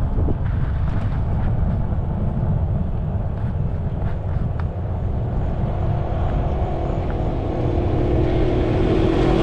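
Wind rumbling on the microphone and tyre noise from a moving fat-tyre e-bike, with a motor vehicle's engine coming closer and getting louder in the last couple of seconds.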